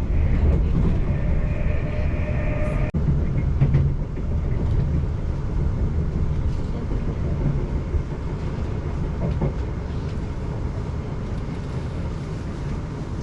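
Passenger train running along the track: a steady low rumble of wheels and running gear. For the first three seconds a whine sits above it, cutting off suddenly with a brief dropout.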